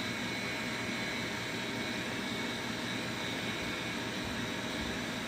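Gas furnace's draft inducer motor running steadily, a constant whooshing hum with faint steady tones. No burner ignition follows: the gas valve, a Honeywell SmartValve the technician judges bad, is not opening.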